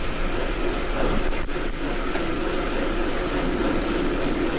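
Steady rush of wind over the microphone and tyre noise from a bicycle riding fast on a paved road.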